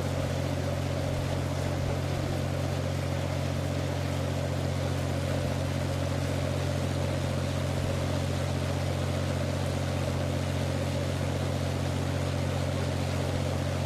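A boat's engine running steadily at constant speed, a low even hum over a steady hiss of wind and water.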